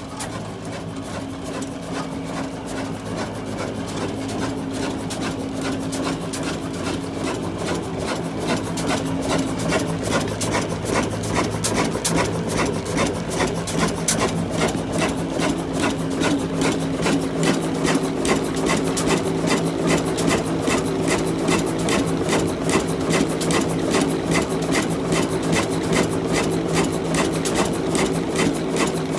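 Old diesel engine running with a rapid, even knocking beat over a steady hum, growing louder over the first ten seconds or so as it picks up, then holding steady.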